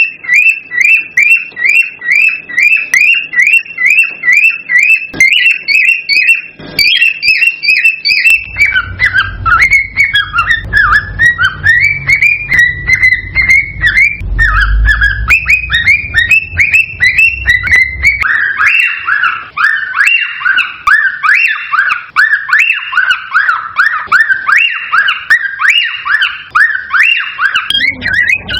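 Cockatiels chirping and whistling: a rapid, unbroken run of short rising calls, several a second. The calls drop lower in pitch about a third of the way in and again past the middle. A low rumble sits under the calls through the middle stretch.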